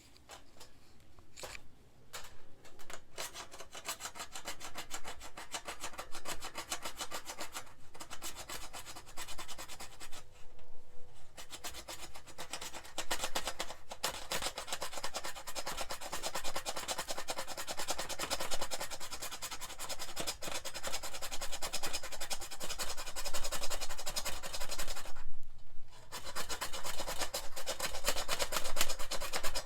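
Rapid, continuous scraping strokes, rasping like something being filed or shaved, broken by two short pauses.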